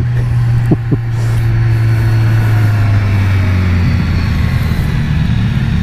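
BMW S1000R's inline-four engine running at low revs in a low gear on a steep downhill, its note dipping slightly and then rising a little near the end, over wind rush.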